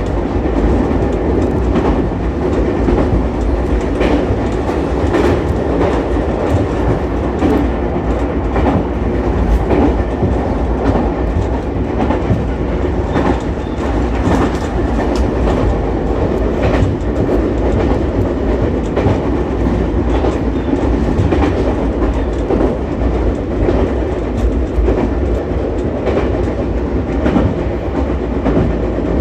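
Ichibata Electric Railway 7000-series electric railcar running at speed, heard from inside the car: a steady rumble of wheels on rail, with sharp clicks at irregular intervals as the wheels pass over rail joints.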